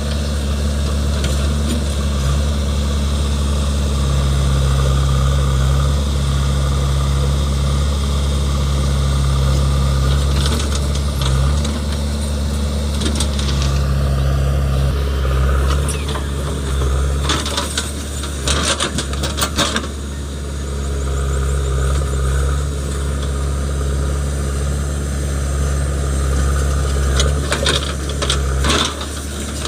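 Diesel engine of a JCB 3DX backhoe loader running and working under changing load while loading mud into a dump truck. Bursts of clanks and knocks come about two-thirds of the way through and again near the end.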